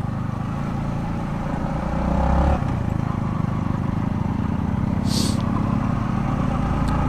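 Yamaha MT-15's single-cylinder engine running as the motorcycle is ridden; the engine note builds about two seconds in, then drops off sharply as the throttle closes. A short hiss comes a little after five seconds.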